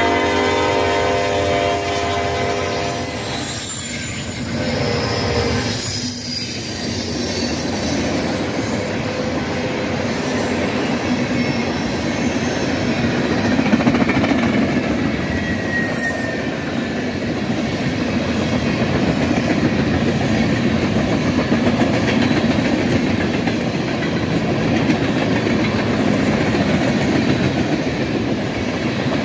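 Freight train locomotive's air horn blowing, its chord fading out about three seconds in, with a brief further blast a couple of seconds later. Then the train rolls past steadily, with clacking wheels and faint high wheel squeal.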